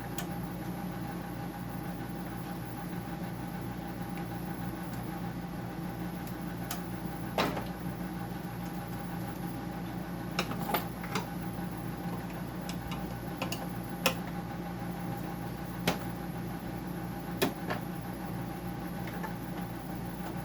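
Scattered sharp clicks and knocks of parts and tools being handled while a dehumidifier is dismantled, about eight over twenty seconds, over a steady mechanical hum.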